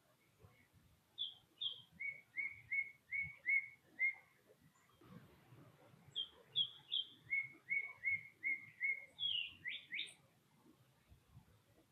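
A songbird singing the same phrase twice: two higher notes, then a quick run of about five repeated lower notes. The second phrase ends in a couple of fast sweeping notes.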